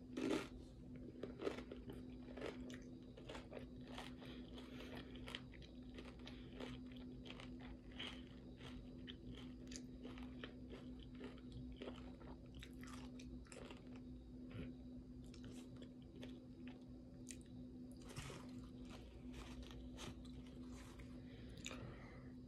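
Close-miked chewing and crunching of taco salad with tortilla chips: a steady run of small crisp crunches, with a louder bite right at the start. A faint steady hum runs underneath.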